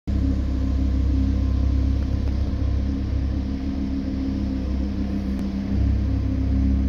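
Volkswagen Scirocco engine idling: a steady low rumble and hum.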